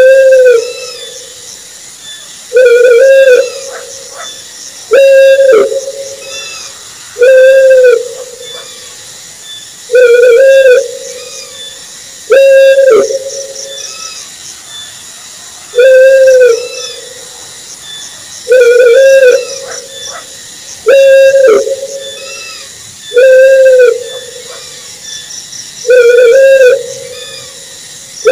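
An owl hooting: single, level, pitched hoots, each about a second long, repeated about every two and a half seconds, over a faint high chirring.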